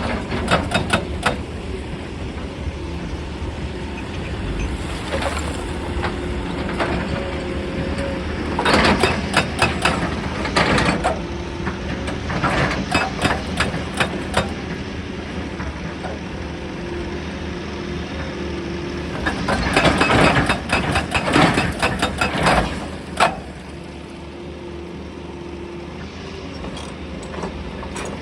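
Excavator diesel engine running steadily with a hydraulic hum that comes and goes, and several bursts of clattering impacts as steel strikes and scrapes rock.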